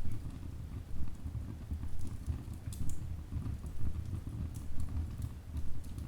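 Wood fire burning in a fireplace: a low, steady rumble of flames that swells and falls, with a few sharp crackles and pops from the logs.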